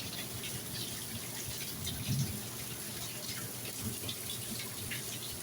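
Steady rain falling, with scattered drips and splashes of water.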